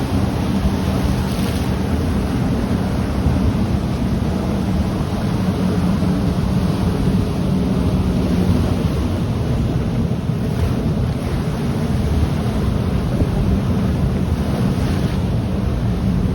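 Ocean surf washing onto the shore in a steady rush, with wind buffeting the microphone.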